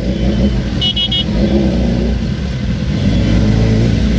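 Motorcycle engines running in a crowd of bikes, one revving up with a rising note near the end. About a second in, a short high beep sounds three times in quick succession.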